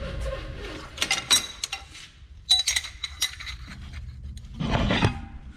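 Small cut steel parts clinking against each other and a metal surface as they are handled and set down. There are sharp clinks with a brief ring, in clusters about a second and about three seconds in, then a duller knock near the end.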